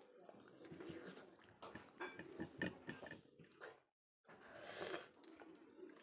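Faint close-up eating sounds: a person chewing pieces of chicken, with a run of soft, wet mouth clicks and smacks. A moment of complete silence a little before the middle, then a short breathy hiss.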